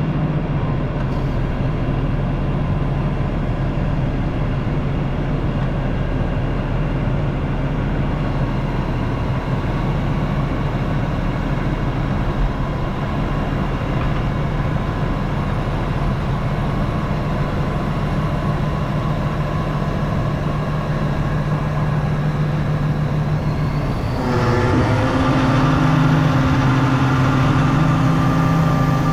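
Diesel engine of the excavator carrying the grapple saw, running steadily under load. About 24 seconds in it speeds up with a short rise in pitch, then holds at the higher speed and runs a little louder.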